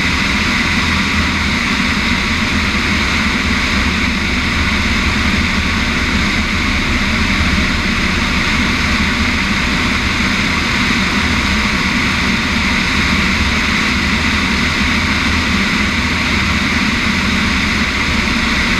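Piper Cub's piston engine and propeller running steadily at constant power, an even drone with no change in pitch.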